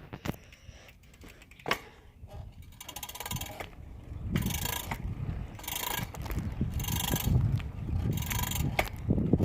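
Bicycle freewheel ratchet ticking in repeated short bursts, roughly once a second, starting about three seconds in, over a low rumble of the tyres rolling.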